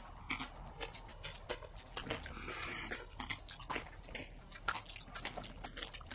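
Close-up eating of yellow passion fruit: wet clicks and crunches as the seedy pulp is chewed, with a brief louder rush of noise about two and a half seconds in.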